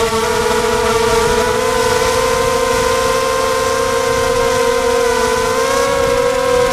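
Quadcopter motors and propellers whining steadily, the pitch wavering slightly and rising a little near the end, with wind rumbling on the microphone.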